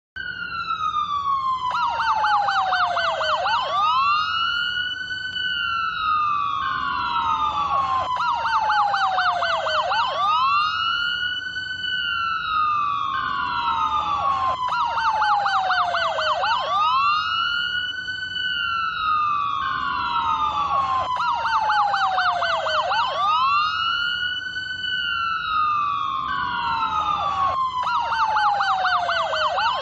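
Electronic police siren sounding in a repeating cycle about every six seconds. Each cycle has a rising sweep, then a slow falling wail with a rapid yelping warble laid over it, then a rise again.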